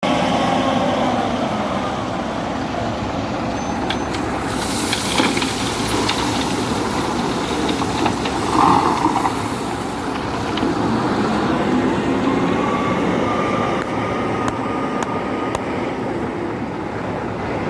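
Scania 164 580 truck's V8 diesel engine running, with a short burst of hiss about five seconds in and a whine that rises slowly in the second half.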